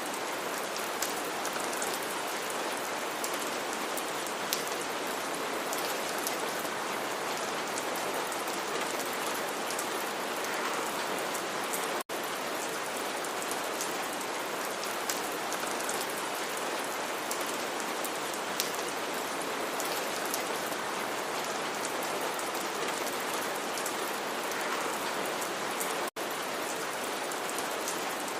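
Steady rain falling, an even hiss with scattered individual drop ticks. It cuts out for an instant twice.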